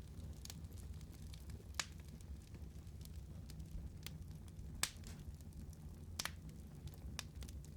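Wood fire burning in a fireplace: a steady low rumble of flame with scattered sharp crackles and pops, the loudest about two seconds in and again near five seconds.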